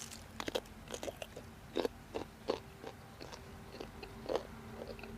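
A person biting and chewing mango close to the microphone: irregular crunchy, wet mouth clicks and smacks, a few each second, with louder bites at about two seconds and four seconds in.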